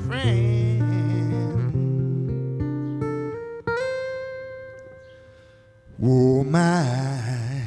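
Guitar playing the closing notes of a slow song, ending on a chord that rings out and fades away. A wavering held note comes in near the end.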